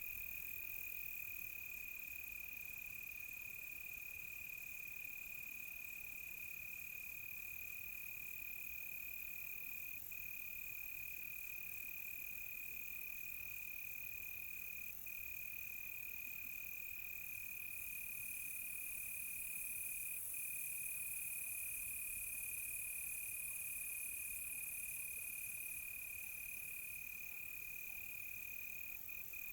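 A cricket chorus trilling as one steady, unbroken high note, over a fainter hiss of higher insect chirring. The higher hiss grows louder for about ten seconds past the middle, then settles back.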